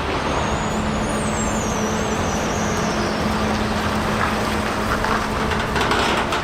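Heavy truck engine running steadily with a low hum. A thin, high squeal falls in pitch over the first few seconds.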